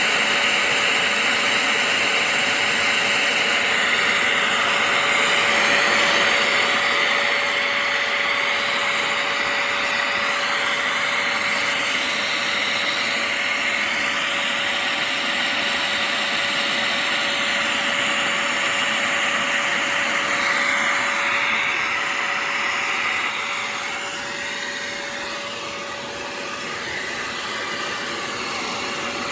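Hoover CleanSlate Plus portable spot cleaner's suction motor running steadily with a constant whine. It eases a little in loudness over the last several seconds.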